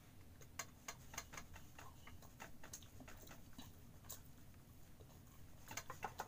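Faint mouth sounds of a person eating fried chicken pieces: a string of small clicks from chewing and lip smacking, thick for the first few seconds, sparse in the middle and bunched again near the end.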